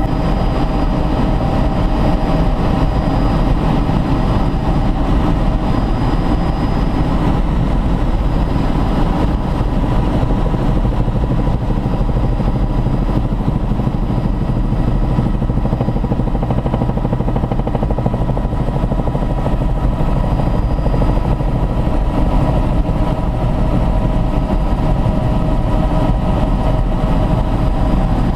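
Helicopter engine and rotor running steadily: a loud, even drone with several steady whining tones above it.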